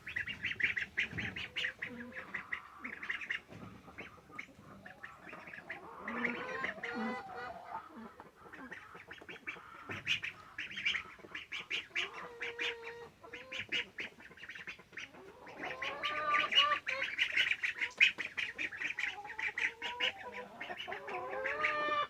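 Domestic ducks quacking and chattering in rapid runs of calls, busiest near the end.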